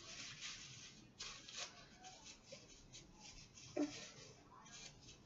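Faint, irregular rustling and crinkling of paper as sticky melted slime is wiped off hands, with one brief pitched sound a little under four seconds in.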